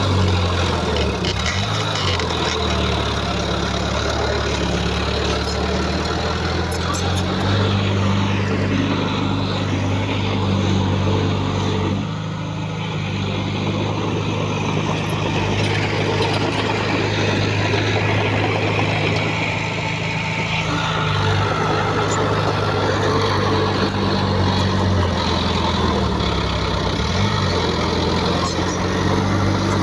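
Heavy diesel earthmoving machinery running continuously, its engine note stepping up and down in pitch several times as it works.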